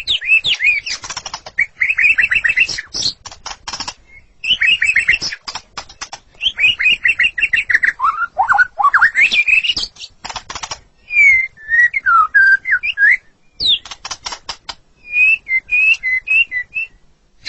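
White-rumped shama (murai batu) singing: fast runs of whistled notes and rising and falling slurs, broken up by dry rapid clicking rattles, in phrases with short pauses between them.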